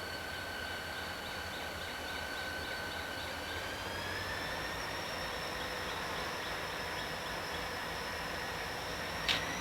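A passing freight train's steel wheels squealing against the rail: a steady high whine over the running noise, stepping up in pitch about four seconds in. A single sharp click comes near the end.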